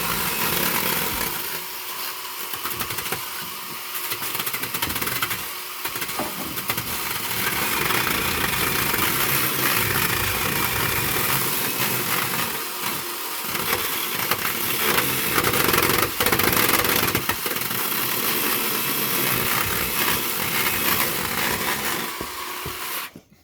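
A motor or small engine running loudly and steadily, cutting off abruptly near the end.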